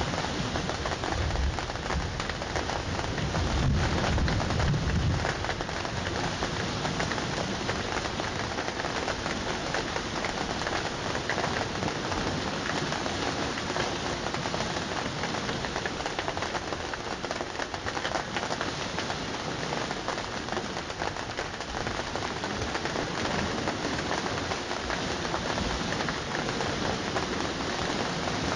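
Steady rain falling, a dense even hiss, with a low rumble in roughly the first five seconds.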